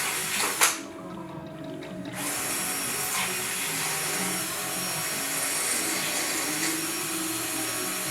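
A power drill starts up after a sharp click and runs steadily, its hum wavering slightly.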